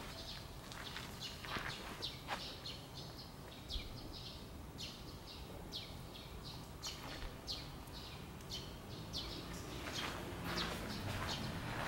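Small birds chirping in quick succession: short, high notes that slide downward, several a second, with a rushing noise building near the end.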